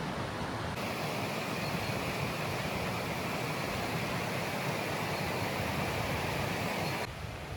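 Steady rush of fast-flowing water from a rain-swollen moorland stream or waterfall, its tone changing abruptly about a second in and again near the end.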